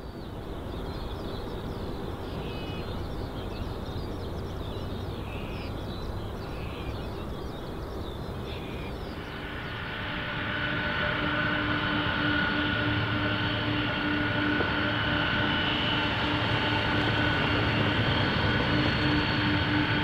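Jet airliner engines: a steady low rumble that grows louder about halfway through, when a steady whine comes up over it and holds.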